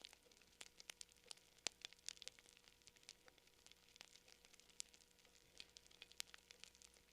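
Quiet crackling of a wood campfire: irregular sharp pops and snaps, several a second, over a faint hiss.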